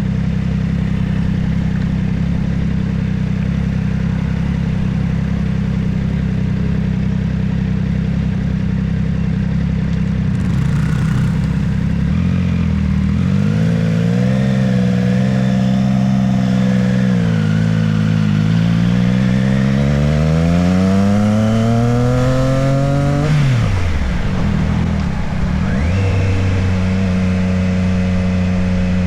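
Motorcycle engine running at a steady note, then from about twelve seconds in rising and falling in pitch as the bike speeds up and eases off. It climbs steadily to a peak, drops sharply a few seconds from the end and settles back to a steady note.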